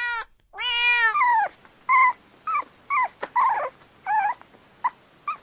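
Two drawn-out kitten meows, then a string of short, high, falling puppy whimpers and yelps, about eight in four seconds.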